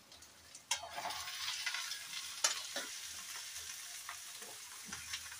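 Chopped vegetables tipped from a steel plate into hot oil in a kadhai, sizzling. The sizzle starts suddenly under a second in and then runs on steadily, with a few sharp clicks as pieces drop in.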